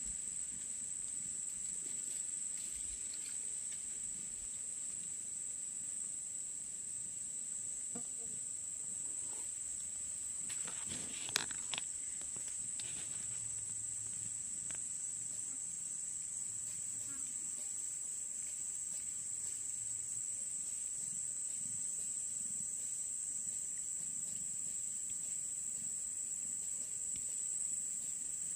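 Insects trilling steadily at one high pitch, with a brief sharp knock about eleven seconds in.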